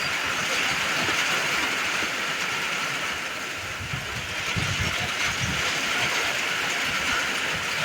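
Steady rain falling, a constant even hiss, with irregular low rumbles of wind gusting against the microphone, strongest about halfway through.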